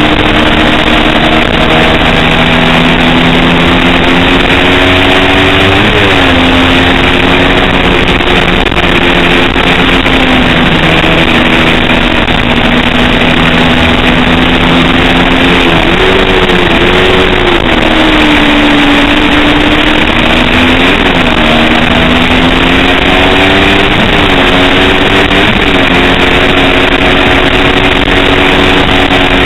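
A 250-class road-racing motorcycle engine running hard and loud, its pitch rising and falling several times as the rider works the throttle and gears, over a steady rushing noise.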